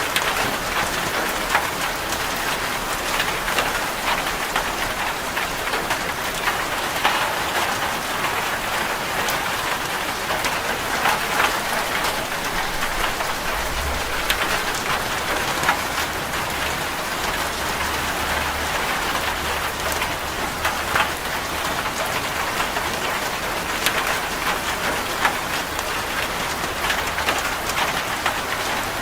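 Heavy rain drumming on a corrugated zinc roof: a steady dense patter with many sharp individual drop ticks. A faint low rumble joins underneath about halfway through.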